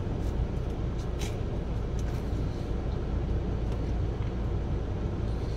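Steady low rumble of an idling car heard from inside the cabin, with a few faint clicks of someone chewing bread.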